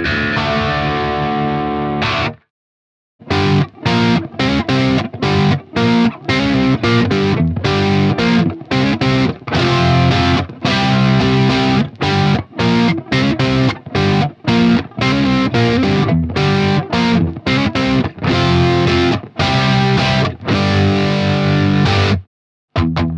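Electric guitar with Leosounds Fireball pickups, played through a BSM 71/73 treble booster into a crunch-set AC30-style amp. A held chord rings out and is cut off after about two seconds. After a short pause come choppy, stop-start chords and riffs with brief gaps between them, which stop once more just before the end and then start again.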